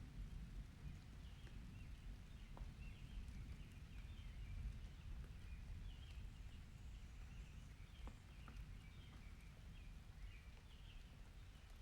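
Faint outdoor ambience: a steady low rumble with many short high squeaks or chirps scattered through it and a few soft ticks.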